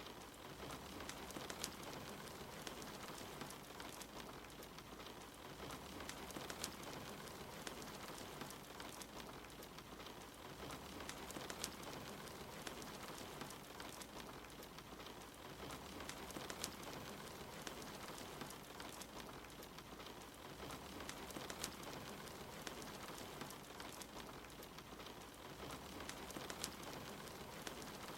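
Steady soft rain mixed with the scattered sharp crackles of a wood fire burning in a fireplace.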